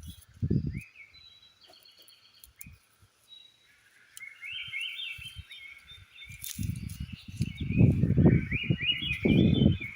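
Small birds chirping in repeated quick trilled phrases. Heavy, irregular low thudding and rustling starts about two-thirds of the way in and is louder than the birdsong.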